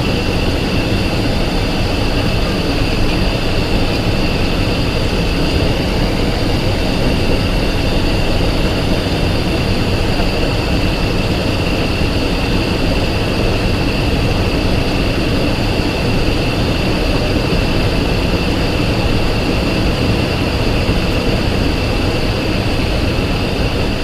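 Cessna Citation XLS business jet running steadily: continuous jet engine and air noise with a high, unchanging whine from its turbofans.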